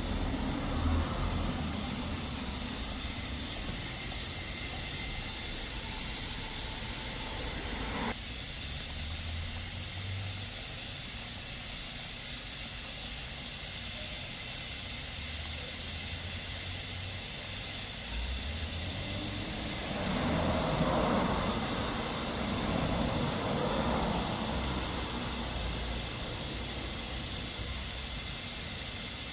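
Steady hiss of an oil-change machine draining used engine oil from the car. A lower running sound underneath cuts off suddenly about eight seconds in, and there are two louder swells of noise a little past the middle.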